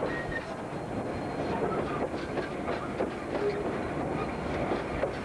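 Freight train's covered hopper wagons rolling past close by, their wheels clacking steadily over the rail joints.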